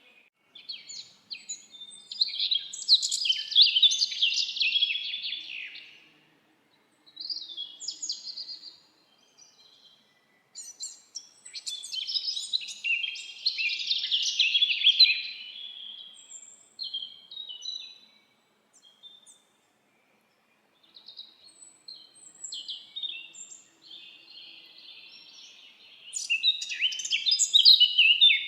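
Songbirds singing in forest: long, rapid, warbling song phrases of a few seconds each, high-pitched and separated by short pauses.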